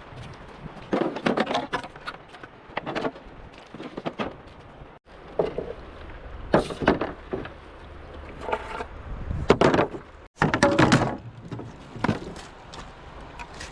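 Hollow knocks and thuds of bamboo poles being handled and struck, coming in irregular clusters, with two sudden breaks in the sound.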